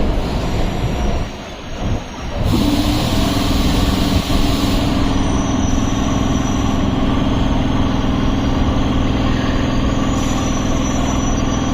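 Electric suburban train: rough running noise, then from about two and a half seconds in a steady electrical hum from the train's equipment, with a hiss of air over the next couple of seconds.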